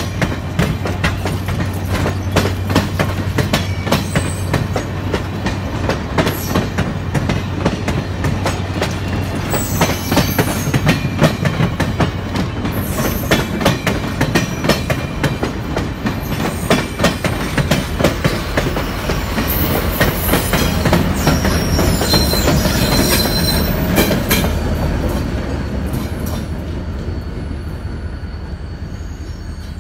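Passenger coaches rolling past at close range, their wheels clicking steadily over the rail joints, with a brief high wheel squeal a little after the twenty-second mark; the sound eases off near the end as the train draws away.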